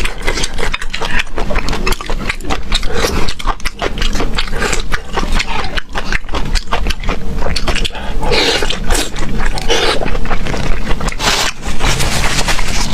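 Close-miked eating: chewing, crunching and mouth smacks, a dense run of irregular clicks and wet noises.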